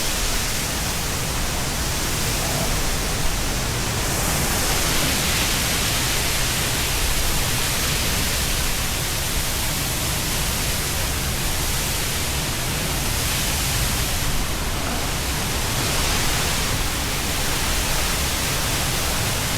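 Waterfall: a steady, loud rushing of falling water with no break.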